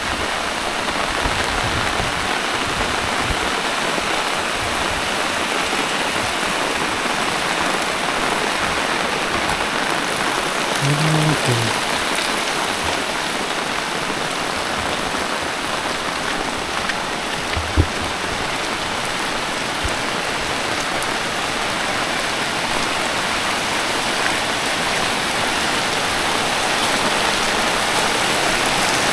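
Steady, heavy rain falling, a dense even hiss. About eleven seconds in there is a brief low pitched sound, and near eighteen seconds a single sharp knock.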